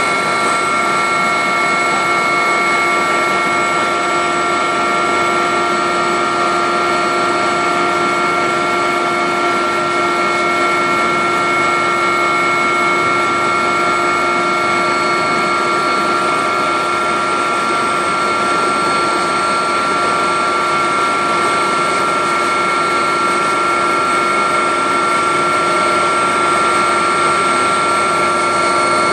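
Agusta helicopter's turbine engine and rotor running steadily, heard from inside the cabin: a constant whine made of several high steady tones over a loud, even rushing noise.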